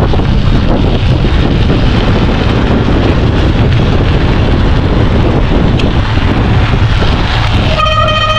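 Wind buffeting the microphone of a moving bicycle, over a steady low rumble. Near the end, a steady high tone with overtones begins.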